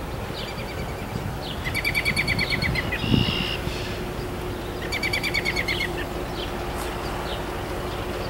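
Songbirds: a small bird sings a fast trill of evenly repeated notes twice, about three seconds apart, among scattered short chirps. A brief low thump comes about three seconds in.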